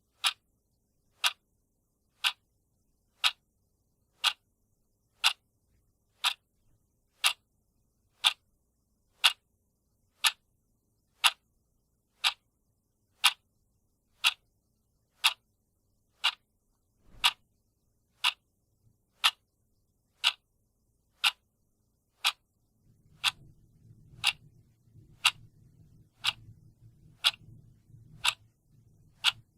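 Clock ticking steadily, one tick a second. A faint low hum comes in for the last few seconds.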